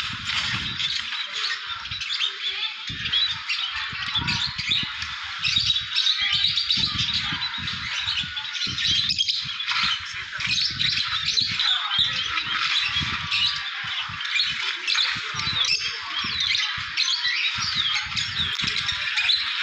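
Many small pet birds chirping and squawking at once, a dense, unbroken chatter of short calls, with irregular low thumps underneath.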